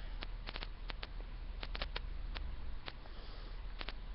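Irregular sharp clicks, about three or four a second, over a steady low hum.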